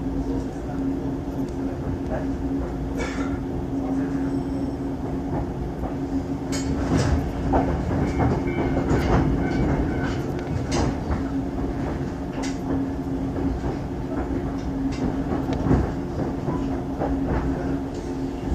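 Electric train heard from inside the carriage, running slowly into its terminus: a steady hum with scattered clacks and knocks of the wheels over rail joints and points, busiest in the middle.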